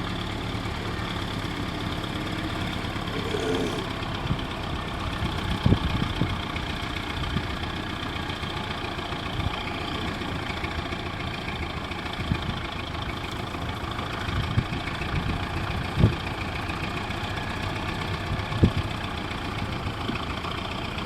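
Heavy equipment's engine running steadily at a low, even speed, with a few sharp knocks standing out above it.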